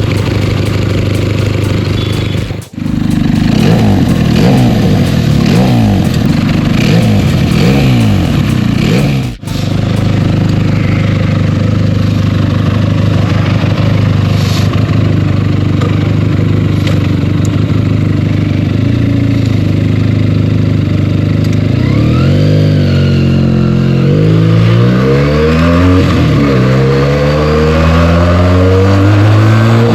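Benelli TNT 300's parallel-twin engine running under way, the sound cutting out for an instant twice early on. Near the end it accelerates, the revs rising and falling repeatedly as it shifts up through the gears.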